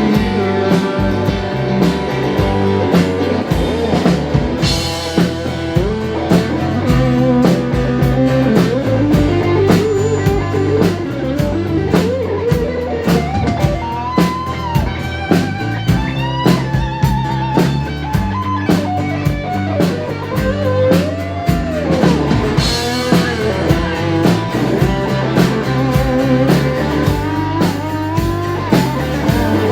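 Live blues-rock band playing an instrumental break: electric lead guitar bending notes over bass and drum kit keeping a steady beat.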